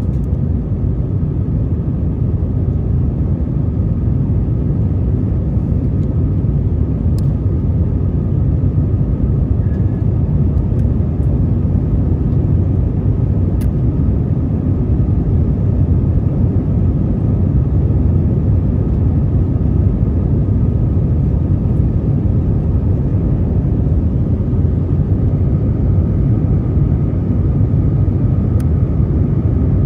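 Steady cabin noise of an Airbus A321 in flight: a constant low rumble of engines and airflow. There are a few faint clicks.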